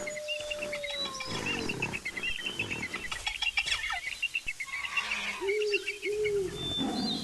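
Wild animal calls over busy bird chirping: one long, slowly falling call in the first two seconds, then two short arched calls near the end.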